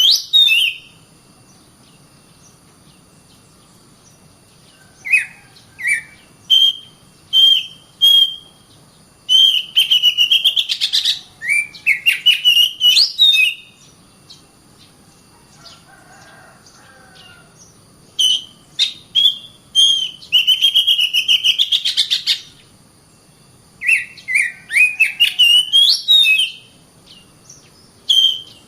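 Oriental magpie-robin singing in bursts of loud, varied whistles and rapid chirping phrases, some rising in pitch, separated by pauses of a few seconds.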